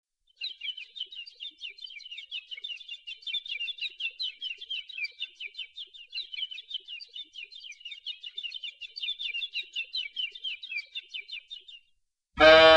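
Birds chirping in a rapid, continuous twittering that stops about twelve seconds in. Music with guitar begins just after, near the end.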